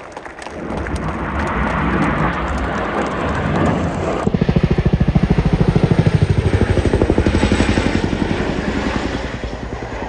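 Large military helicopter's rotors growing louder as it approaches. About four seconds in, a rapid, steady, heavy blade thudding takes over.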